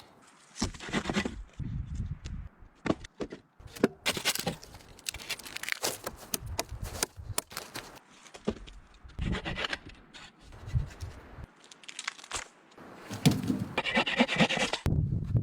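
Irregular scrapes, cracks and rustles of sticks and brush being handled, with a busier, louder stretch near the end.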